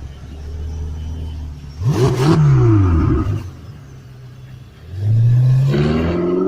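Performance car engine idling, then revved twice: a quick blip about two seconds in that falls back, and a longer rev starting near five seconds that is held to the end.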